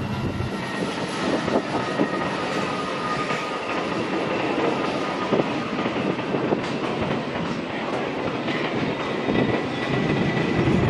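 Freight train cars rolling past on steel rails, with a steady rumble, irregular clacks from the wheels and a faint thin wheel squeal now and then.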